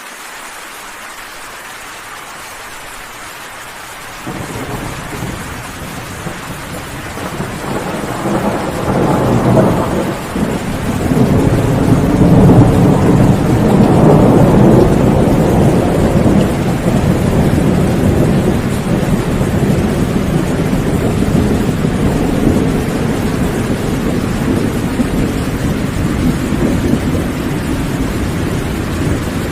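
Steady heavy rain with a long rolling thunderclap that builds from about seven seconds in, peaks a few seconds later and slowly rumbles away.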